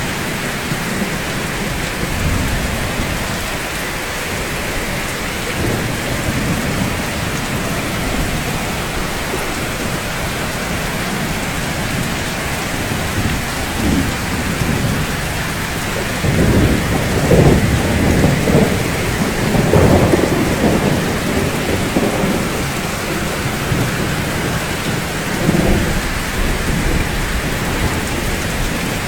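Steady, even rainfall, with low rolling thunder swelling up about halfway through and rumbling for several seconds, then a shorter rumble near the end.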